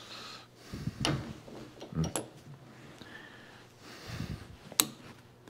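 A few scattered clicks and light knocks of hand-tool work on metal, with one sharp click near the end, as a bolt is pried on to pull a stuck flashlight tail cap.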